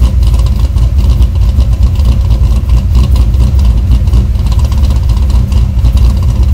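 LS1 V8 idling with an uneven, lumpy chop: a 'ghost cam' idle, made by the Haltech ECU swinging the ignition timing at idle so that the engine sounds as if it had a bigger cam.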